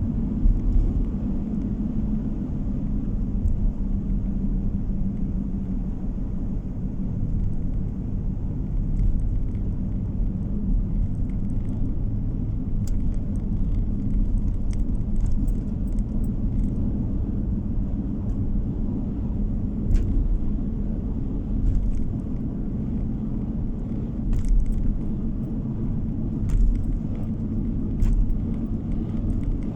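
Steady low rumble of a car on the move, engine and tyre noise heard from inside the cabin, with a few faint clicks and rattles.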